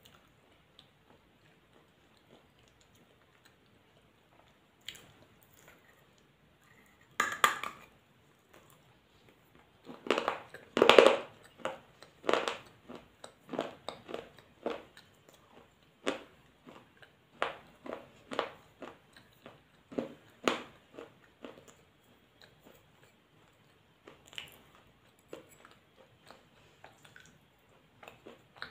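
A person chewing crunchy food close to the microphone. After a quiet start there is one loud crunch about seven seconds in, then steady crisp crunching chews at one or two a second from about ten seconds in, thinning out near the end.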